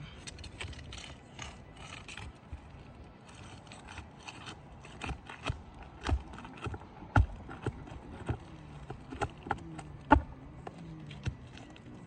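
Irregular knocks and taps of hand tools working on an asphalt shingle roof as a stuck shingle is worked loose, with a few louder strikes in the second half.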